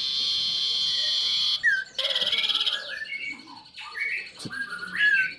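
Common iora (cipoh) singing. It opens with a fast, high buzzing trill for about a second and a half, then runs through varied short whistles, rising and falling slurs and quick trills.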